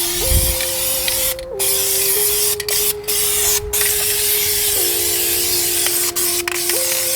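Krylon High Heat aerosol spray paint can spraying in a steady hiss, cut off for a moment several times as the nozzle is let up between passes.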